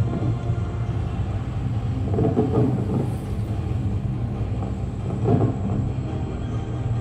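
Steady low rumble of a fireworks display, with a couple of swells in the rolling noise.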